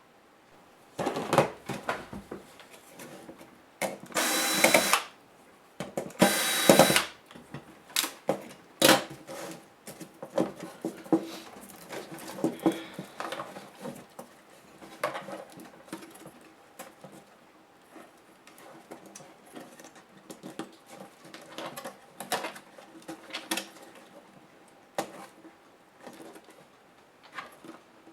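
Small electric screwdriver running in two short bursts of about a second each, backing out laptop case screws, with a thin motor whine. Around and after them come scattered clicks and taps of small screws and plastic laptop parts being handled.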